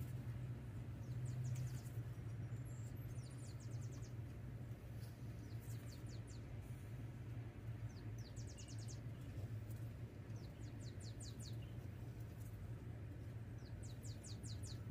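A bird calling in short, rapid trills of high chirps, repeated several times, over a steady low hum.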